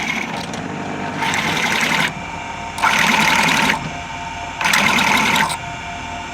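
A workshop machine running in repeated bursts of hissing noise, each under a second long and about every two seconds, with a steady hum underneath.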